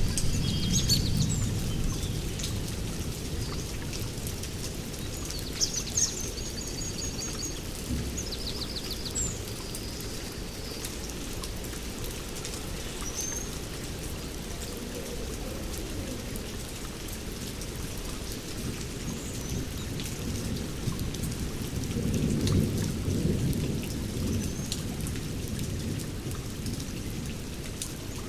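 Steady rain with rolling thunder: a low rumble dies away over the first few seconds and another swells up about two-thirds of the way through. Birds chirp and trill over the rain, mostly in the first third.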